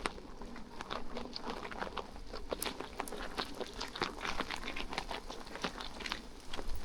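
Rain pattering: many irregular drops ticking, several a second.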